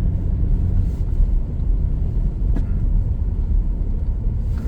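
Steady low rumble of a car driving, with a faint click about two and a half seconds in.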